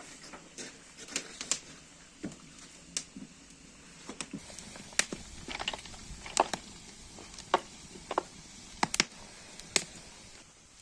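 Irregular sharp knocks and clicks of cooking gear and wood being handled, about a dozen spaced unevenly over a faint steady hiss.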